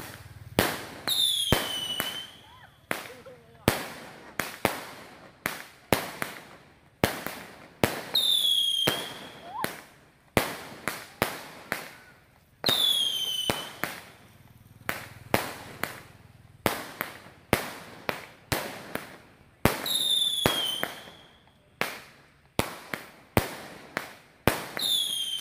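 36-shot firework cake firing: a string of sharp bangs as the shots launch and burst, one to two a second. About five of the shots carry a short falling whistle.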